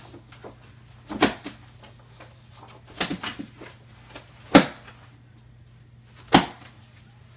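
Foley knocks made by hand with a book: a few sharp thumps and slaps, the loudest about two-thirds of the way in, with a quick cluster of smaller knocks just before it. A faint steady hum sits underneath.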